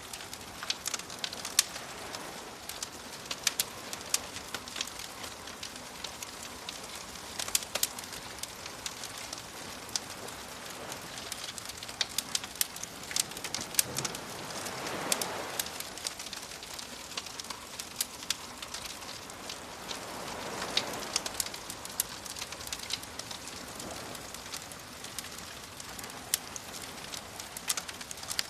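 Campfire crackling with frequent sharp pops over a steady soft wash of waves. The waves swell up twice, about halfway through and again a few seconds later.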